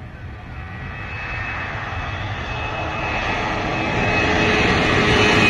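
Jet airliner's engines, a rushing noise with a high whine, growing steadily louder as the aircraft approaches.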